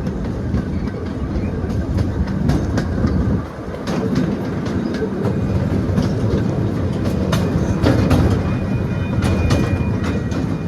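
Miniature train rolling along its track, a steady rumble with clicks of the wheels over the rail joints.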